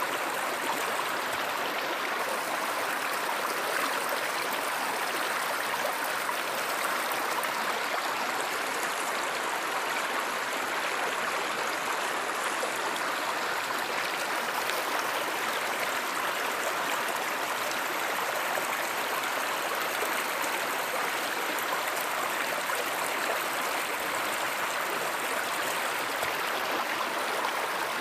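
Stream water flowing in a steady rush, with no change in level.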